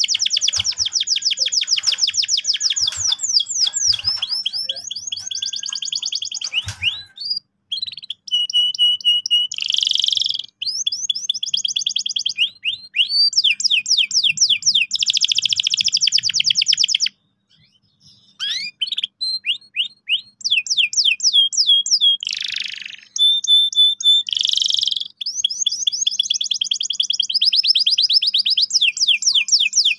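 Domestic canary singing a near-continuous song of long, fast rolled trills and repeated buzzy notes, with a short break a little over halfway through.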